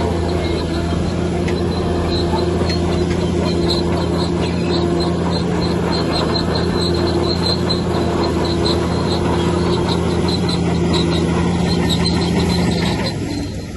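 Bulldozer's diesel engine running steadily, with a high squeal from its steel crawler tracks repeating about three times a second. Near the end the engine note drops.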